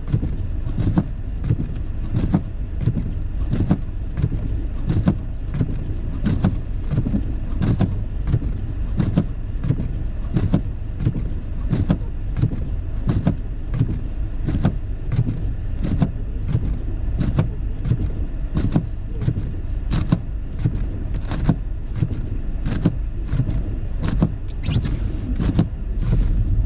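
Inside a waiting car's cabin: a steady low rumble of the running car, with a regular tick or thump about every 0.7 s.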